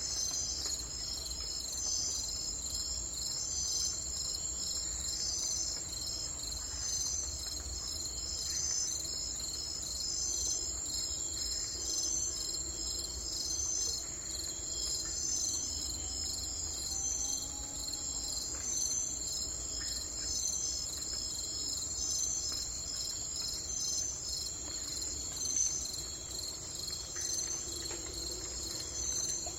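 Insect chorus, crickets or similar: a steady high-pitched trilling with an even, repeating pulse, over a faint low rumble.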